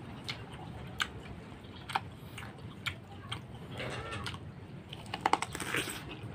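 Close-up mouth sounds of chewing tough, unripe soursop flesh: scattered wet clicks and smacks, about one a second, over a faint low hum.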